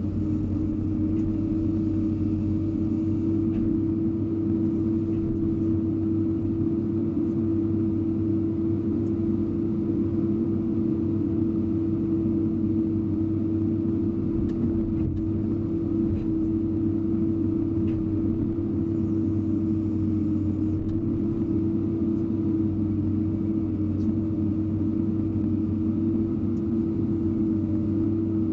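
Hydraulic excavator's diesel engine running at a steady speed: a constant low drone with a steady tone over it, unchanging in pitch and level.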